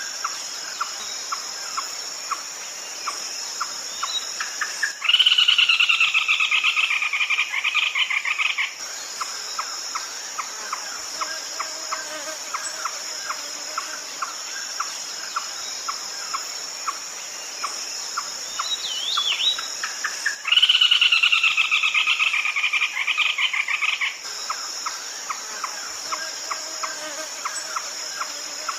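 Red-legged crake calls: two loud, fast rattling bursts of about three and a half seconds each, sliding slightly down in pitch, one about five seconds in and the other about twenty seconds in. Between them a regular ticking call about twice a second runs over a steady high insect chirring.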